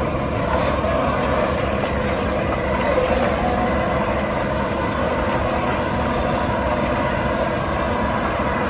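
Heavy diesel engines of tractors or a combine harvester running steadily under load.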